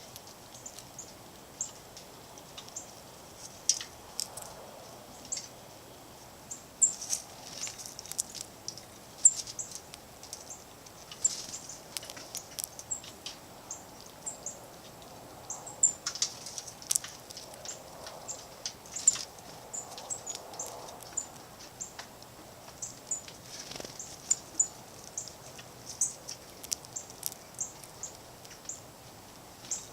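Small songbirds chirping, many short high chirps in quick irregular succession, with a few sharp clicks among them.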